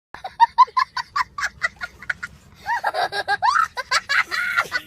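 A person laughing in a quick run of high-pitched bursts, then breaking into longer high-pitched laughing exclamations about halfway through.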